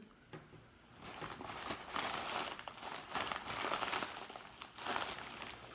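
Packaging crinkling and rustling in irregular bursts as it is handled and pulled at by hand, trying to tear the box open without a tool.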